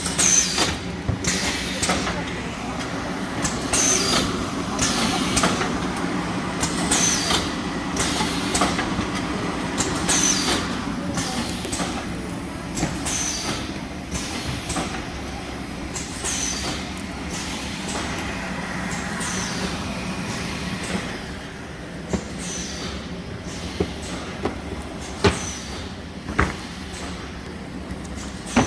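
Shrink-wrap packaging machinery running: a steady hum with a rushing, hissing stroke repeating every second or two, the strokes dying away about two-thirds of the way through. A few sharp clicks come near the end.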